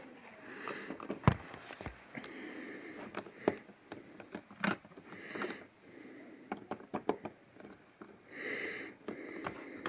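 LEGO plastic pieces and minifigures being handled on the built set, giving scattered sharp clicks and light knocks at irregular intervals, with soft breaths between.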